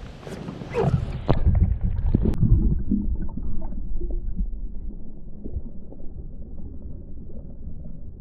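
Splashing as the microphone goes into the water, then dull, muffled underwater rumbling and gurgling, with all the high sounds cut off from about two seconds in.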